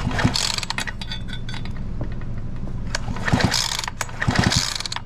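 Husqvarna 345 chainsaw's recoil starter pulled three times, the engine turning over briskly without firing during a spark test.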